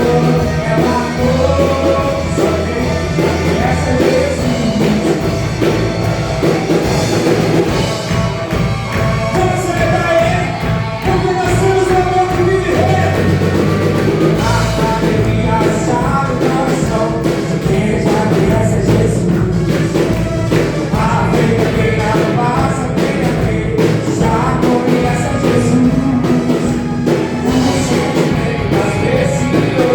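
A band playing an upbeat, rock-style worship song with singing.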